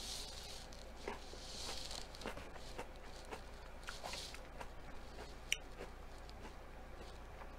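Close-miked chewing and mouth sounds of someone eating a sweet pepper ring: soft wet clicks and a few short breathy hisses. One sharp click about five and a half seconds in.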